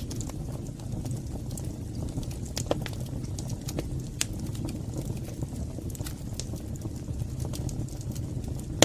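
Fire burning in a fireplace: a steady low rumble of flames with scattered sharp crackles and pops at irregular intervals.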